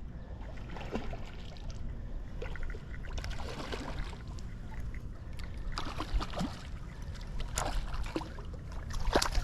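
Wind buffeting the microphone in a constant low rumble, with water splashing and sloshing in short irregular bursts throughout.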